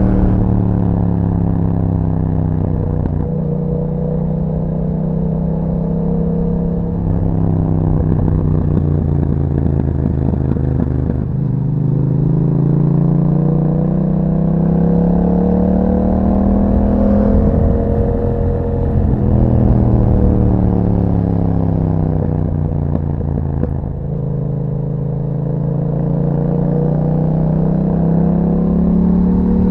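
Yamaha MT-07 parallel-twin engine running through an Akrapovic exhaust while riding. Its pitch rises and falls with the throttle, dropping suddenly about three, eleven and twenty-four seconds in, then climbing again.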